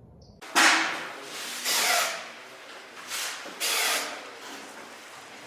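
Grout cleaning machine's nozzle jetting in hissing bursts, four of them, the first about half a second in and the loudest.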